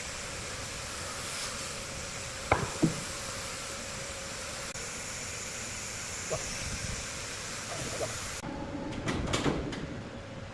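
Large wood-cutting saw machinery running with a steady hum, with two sharp knocks about two and a half seconds in and a few lighter knocks near the end.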